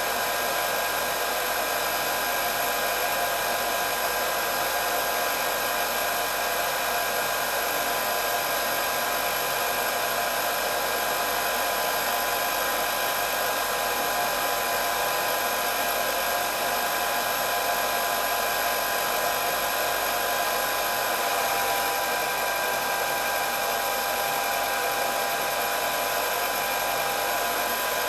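Electric hair dryer running steadily, a constant blowing rush with a thin high motor whine.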